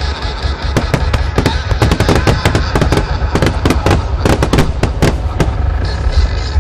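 Fireworks display: aerial shells bursting and crackling in a dense, rapid string of bangs, many a second, over a continuous low rumble.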